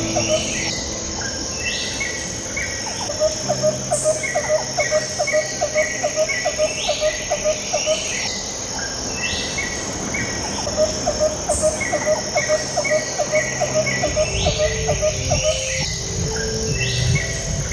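Calm background music with held low notes, layered with steady cricket-like chirping and short bird-like calls that repeat in a regular loop every few seconds.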